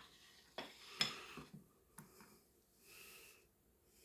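A few faint knocks and clicks from handling a cooking pot and utensils, about four of them in the first two seconds, then a short hiss about three seconds in.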